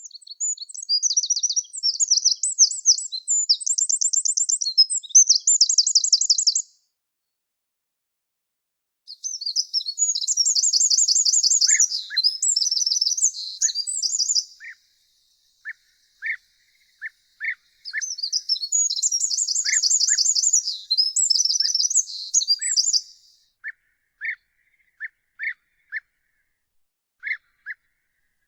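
Songbird singing three long phrases of fast, high twittering trills, each several seconds long with pauses between. From about twelve seconds in, a second bird gives short single call notes at a lower pitch, repeated every second or so.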